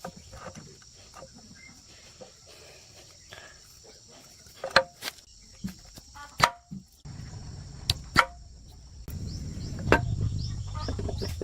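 Scattered sharp clicks and knocks, a few with a short ring, over a faint steady high chirring of insects.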